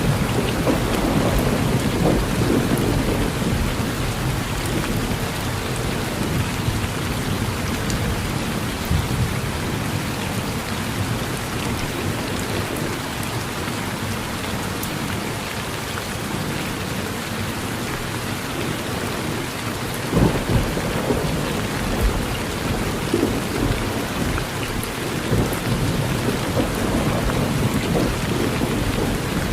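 Steady rain falling on a porch, with low thunder rumbling in swells near the start and again about two-thirds of the way through.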